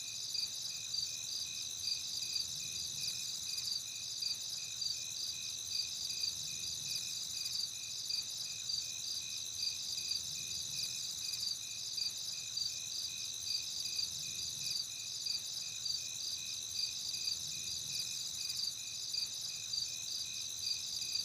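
Crickets chirping: a faint, steady, high-pitched chirp repeating at even spacing over a soft hiss of insect noise.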